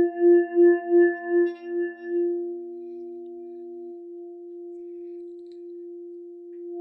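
Alchemy crystal singing bowl tuned to F, ringing. Its tone pulses about three times a second for the first two seconds, then carries on as a steady, quieter ring.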